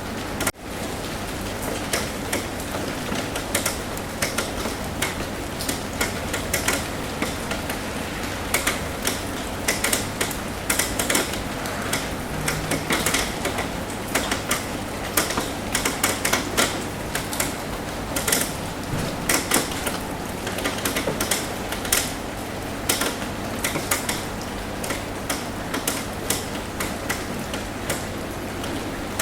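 Raindrops tapping irregularly on a roof over a steady rain hiss, with a faint low hum beneath. The sound drops out briefly about half a second in.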